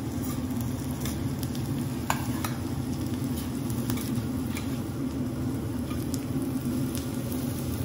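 Fried rice sizzling on a hot teppanyaki griddle while two metal spatulas scrape and tap against the steel plate, giving scattered sharp clicks over the steady sizzle. A steady low hum runs underneath.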